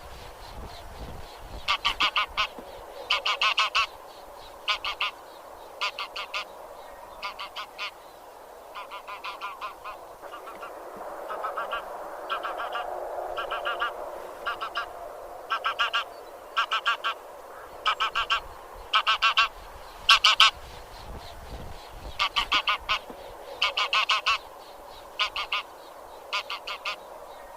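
Geese of the genus Anser (grey geese) honking: short calls in quick runs of two to four, repeating every second or two, with a softer, lower-pitched chatter swelling in the middle.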